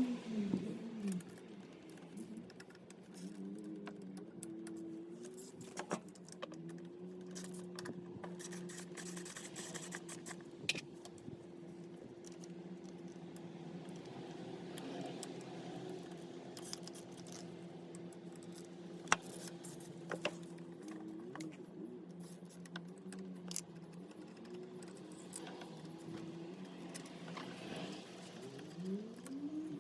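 Yamaha JOG APRIO scooter's small two-stroke engine: the revs fall away to idle right at the start, it idles steadily with a light rattle and a few sharp clicks, and it is revved up again near the end.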